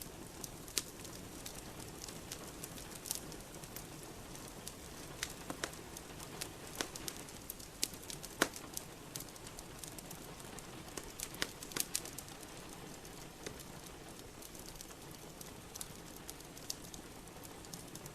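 Steady rain hiss with a wood fire crackling in a fireplace: sharp, irregular pops and snaps, a few louder ones about midway.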